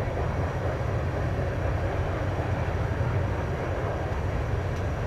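CN freight train rolling past, a steady low rumble with no break or change.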